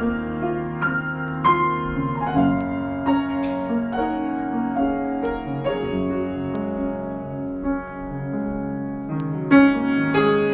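Solo piano improvisation: slow, held chords and single notes, with a louder chord struck near the end.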